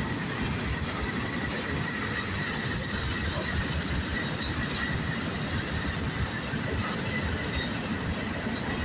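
Norfolk Southern freight train rolling past in a steady rumble of wheels on rail, with faint high-pitched wheel squeal over it.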